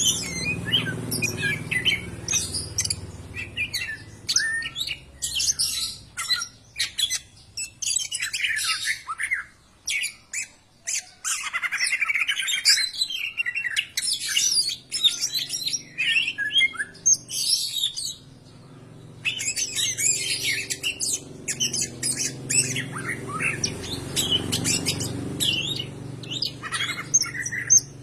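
Green leafbird (cucak ijo) singing a long, rapid stream of varied chirps, whistles and sliding notes, with a short pause about two-thirds of the way through.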